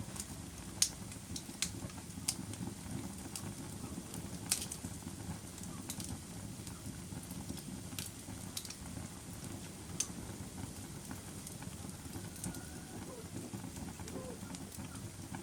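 Fire burning in a fireplace: a steady low rumble of flames with sharp crackles and pops every second or two, the loudest about a second in and about four and a half seconds in.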